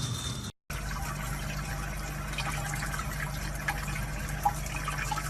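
A steady rush of running water with faint scattered clicks and a low hum, after a brief cut to silence about half a second in.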